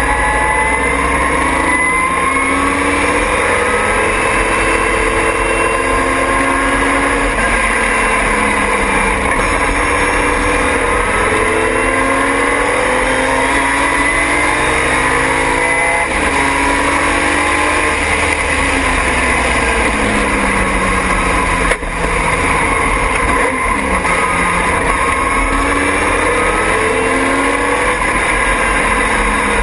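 Triumph TR6 race car's straight-six engine at race pace, its revs climbing and dropping again and again with acceleration and gear changes, over a steady rush of wind and road noise.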